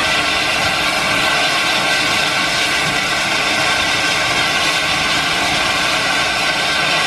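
A train running close by: a loud, steady rush of wheel and machinery noise with several held tones.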